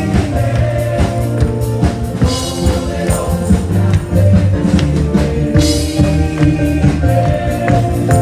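Live gospel worship band playing, with singing over a steady beat from a drum kit, bass and cymbals.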